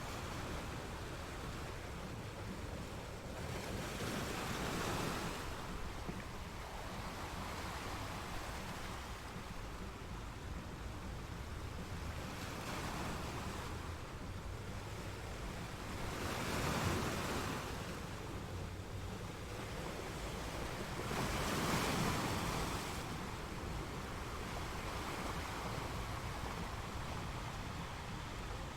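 Ocean waves breaking against rocks, a steady wash of surf with louder surges every few seconds, the strongest about 17 and 22 seconds in, with some wind rumble on the microphone.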